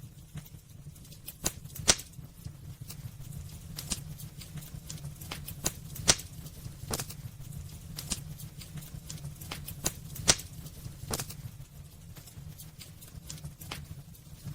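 Wood fire burning in a fireplace: irregular sharp crackles and pops, several a second, over a steady low rumble. Two pops stand out louder, about two seconds in and about ten seconds in.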